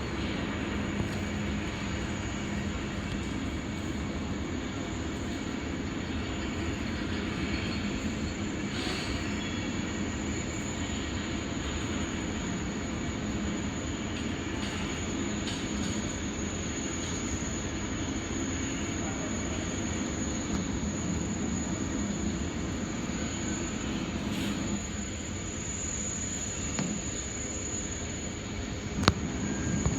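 Steady, unbroken low rumble of large machinery, with a faint high whine over it and a single sharp click near the end.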